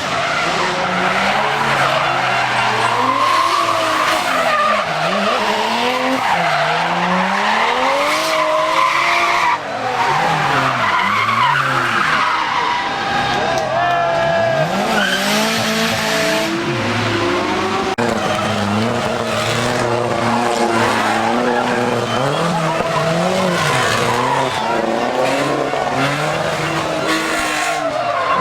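Drift cars' engines revving hard, the pitch climbing and dropping again and again, over tyres skidding and squealing as they slide through the bends.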